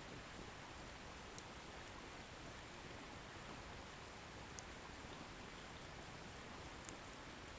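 Firewood bonfire burning with a faint steady hiss, and three small sharp crackles of wood popping.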